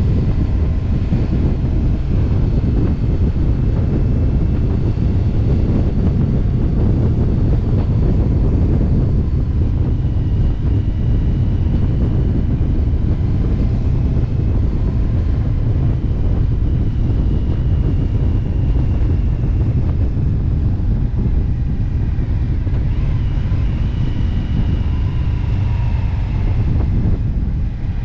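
Motorcycle riding at steady road speed: wind rushing over the microphone dominates, with the engine's drone and faint shifting whines underneath.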